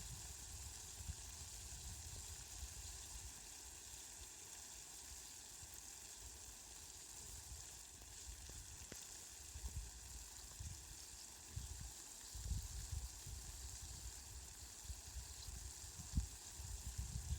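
Steady hiss of falling rain with faint scattered ticks of drops, over a low rumble that comes and goes and grows stronger near the end.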